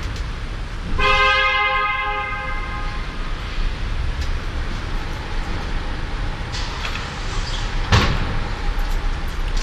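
Steady low rumble of a car on the road, heard from inside. About a second in, a loud ringing tone starts suddenly and dies away over about two seconds. Near the end there is a single knock.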